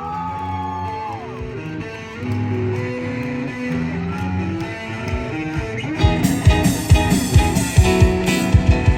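A band playing a song's intro: guitar and bass notes, with drums coming in about six seconds in.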